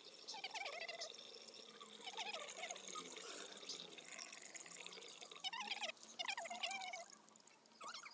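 Liquid being poured into a mixer-grinder jar, faint splashing and gurgling in several short spells.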